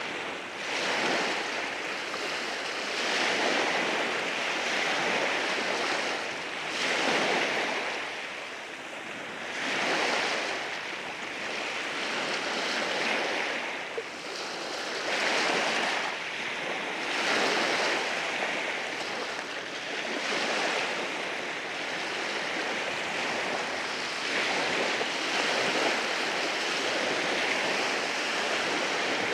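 Sea waves breaking and washing in over shoreline rocks, in a continuous rush that swells in surges every few seconds.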